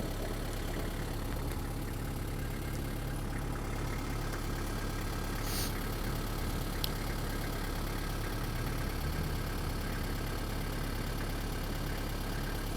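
Nissan Atlas's 2.7-litre TD27 turbodiesel engine idling steadily.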